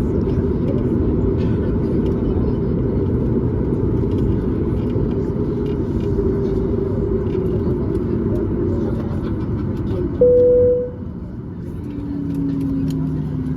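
Steady cabin rumble inside a Boeing 737 MAX 8, with faint engine tones sliding slowly down. About ten seconds in a single cabin chime sounds, and the rumble then drops.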